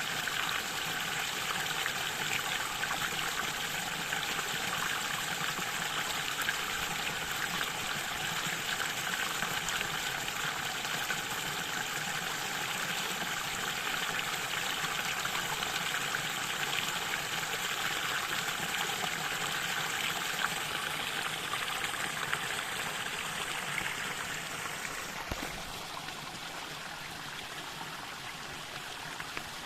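Mountain stream running steadily over rocks, an even rushing of water. About five seconds before the end it becomes a little quieter and less hissy.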